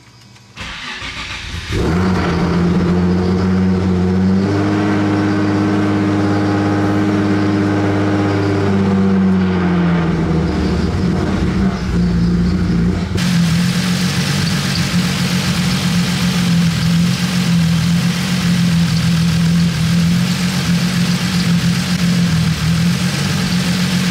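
Turbocharged Nissan 350Z VQ35 V6 starting up about two seconds in, revved and held for about five seconds, then dropping back to a steady, slightly wavering idle while its cooling system is bled of air. A steady hiss joins about halfway through.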